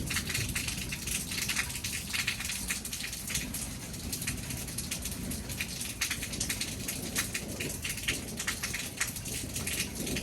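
Rain falling in a thunderstorm: a dense, irregular patter of drops over a steady low rumble.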